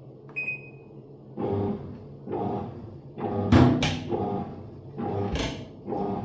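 A single electronic beep from a Living & Co 5.5 kg top-loading washing machine's control panel, then its motor turning the wash plate in short bursts about once a second, with a knock about halfway through. This stop-start turning is the machine starting its automatic load and water-level sensing.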